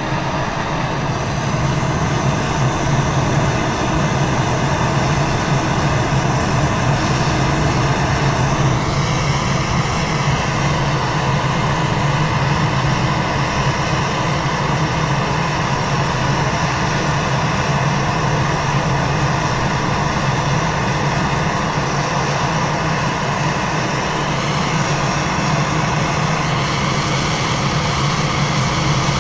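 Plumber's gas torch burning steadily while heating the copper joints of a brass shower valve to sweat them with solder: a continuous rushing hiss over a low hum.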